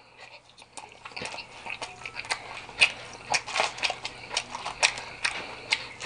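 Close-miked chewing of a mouthful of quesadilla: irregular wet smacks and clicks of the mouth, a few each second.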